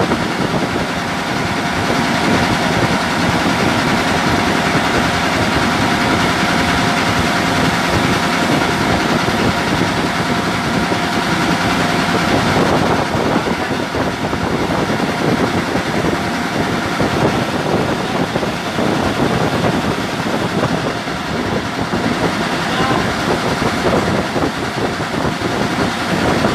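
Engine running steadily, with a faint whine that fades out about halfway through.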